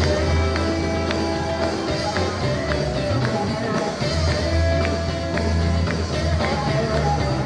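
Live sacred steel gospel band playing loudly: held steel guitar notes over a driving electric bass line and drum hits.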